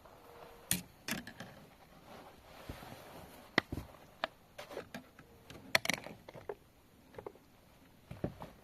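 Scattered light knocks and clicks of gear being handled in a kayak, coming irregularly.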